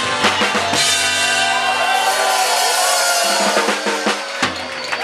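Live rock and roll band playing with drum kit and wailing, bending harmonica; the bass drops out a little past the middle, followed by a few drum hits as the song nears its close.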